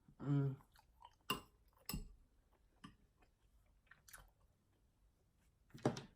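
Close-miked eating sounds of a person chewing shrimp and cheese grits: wet mouth clicks and smacks scattered through, with a short hummed "mm" just after the start.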